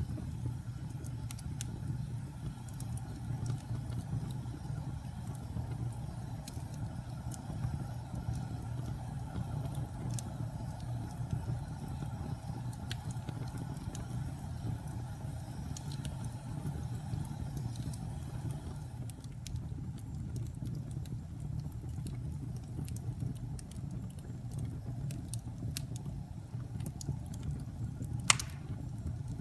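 A fire burning: a steady low roar with scattered crackles and snaps, and one sharper pop near the end.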